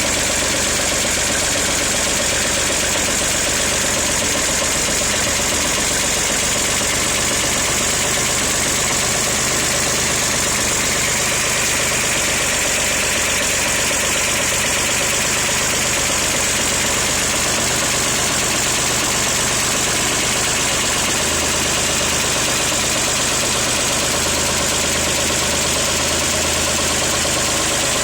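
Chevrolet Corvair air-cooled flat-six running steadily at idle shortly after a cold start. It has three modified lifters and has just built oil pressure, and the run is a check on whether the lifters are now getting oil.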